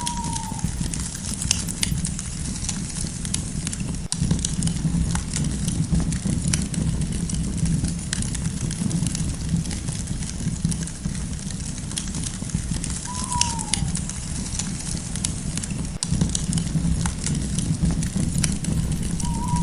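Campfire crackling and popping in irregular sharp snaps over a steady low rumble of burning. A short falling whistle sounds at the start, again about two-thirds of the way in, and briefly at the end.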